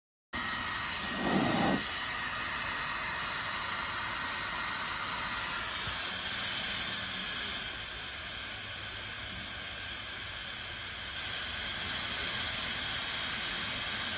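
Dyson Supersonic HD08 hair dryer running: a steady rush of air with a faint high whine above it. It changes in tone about six seconds in and back again near eleven seconds, as if the speed or heat setting is switched, and there is a brief louder rush about a second in.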